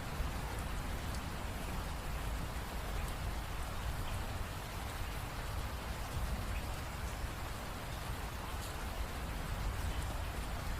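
Steady rain falling, with scattered faint drop ticks over a low rumble.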